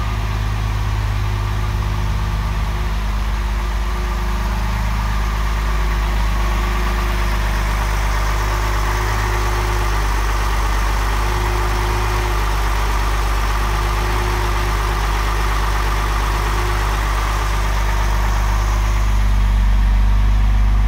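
Mercedes-Benz 230SL's fuel-injected 2.3-litre straight-six idling steadily while it warms up from a cold start, still at its raised cold-start idle speed.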